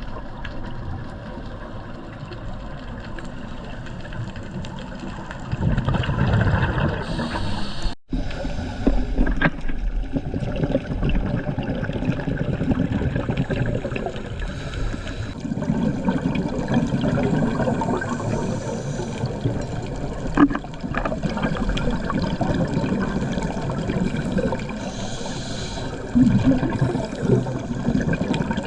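Underwater sound of scuba diving picked up by a camera in its housing: bubbles gurgling from a diver's regulator, swelling in bursts every few seconds, with a brief break about eight seconds in.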